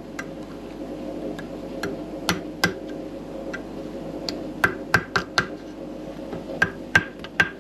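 Light, sharp metal taps and clicks at irregular intervals, about a dozen, as a retaining clip is tapped into a motorcycle front fork leg to seat it properly.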